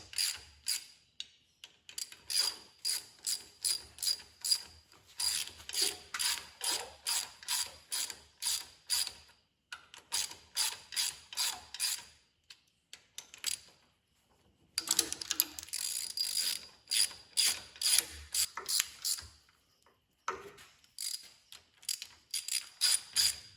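Hand ratchet clicking in several runs of about four clicks a second, with short pauses between runs, as new head bolts are run down onto the cylinder head.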